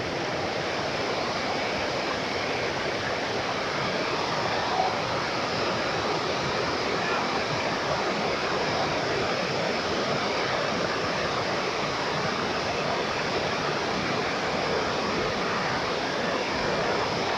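Steady rush of water cascading down a waterfall, an even hiss-like roar with no break.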